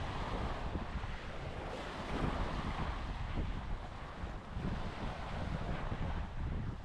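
Small waves washing onto a sandy beach, the surf swelling and easing, with wind buffeting the microphone in a low, gusty rumble.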